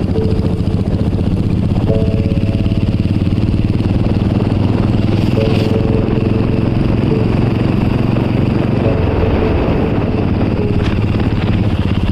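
Royal Enfield Bullet motorcycle's single-cylinder engine running steadily under way, a continuous low pulsing.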